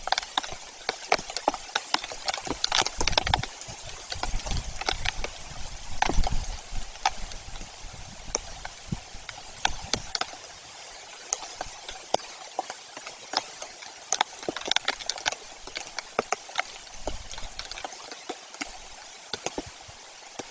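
Raindrops tapping irregularly on the nest camera and microphone, with a few gusts of wind rumbling across the microphone early on and again near the end.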